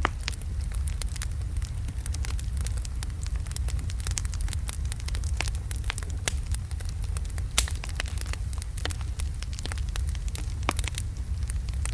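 Large wood logs burning in a fireplace, crackling with many irregular sharp pops over a steady low rumble of the flames.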